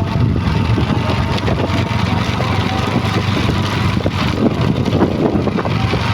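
Truck engine running steadily at a low, even pitch.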